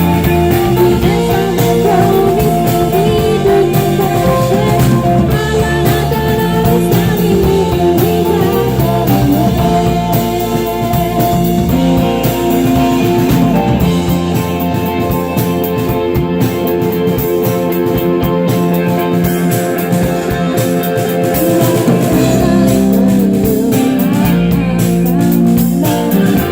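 Rock band playing live: electric guitars over a drum kit, loud and steady.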